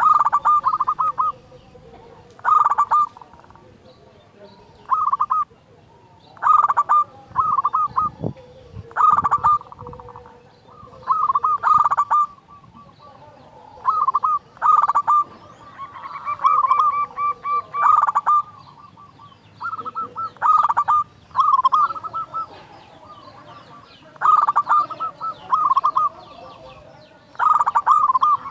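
Local zebra dove (perkutut) in full song: loud cooing phrases of several quick notes, repeated every second or two.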